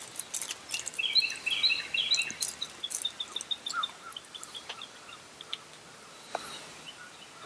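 Small songbird calls: clusters of short chirps, then a quick run of short, evenly spaced notes about three seconds in, with scattered light ticks over a faint steady background.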